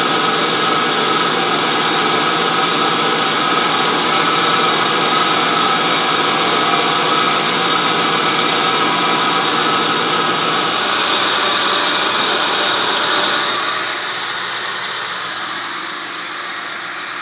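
Mercury Grand Marquis 4.6 single-cam V8 running on a cold start, with a loud high whine/whistle from the drive-belt end of the engine over the engine noise. The whine is typical of this engine only in the first seconds of a start below freezing, from the belt and pulley area. The sound grows brighter about eleven seconds in, then drops off noticeably a few seconds later.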